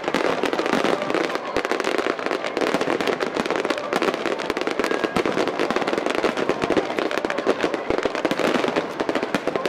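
A dense barrage of aerial fireworks bursting at once: many rapid pops and crackles overlap with no gaps between them.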